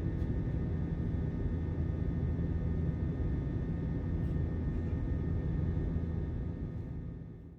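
Steady low rumble of jet engines and airflow heard inside an Airbus A321 cabin in flight, fading out near the end.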